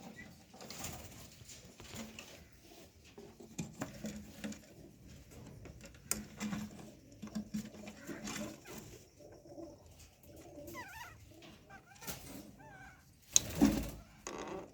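Caged birds calling softly: low cooing notes and a few short chirps, with one loud brief rustle or knock near the end.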